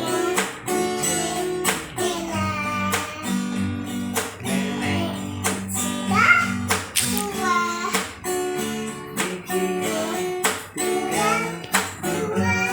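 Acoustic guitar strummed in a steady rhythm while a child sings a children's song along with it.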